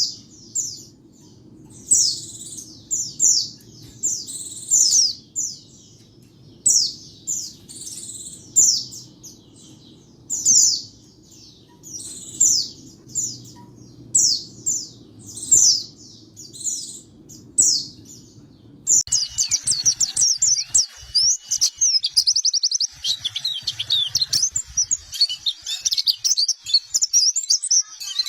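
Oriental white-eye (pleci) song: short, high chirping phrases repeated about once a second over a faint low hum. About two-thirds of the way through it changes abruptly to fast, continuous twittering song with no hum.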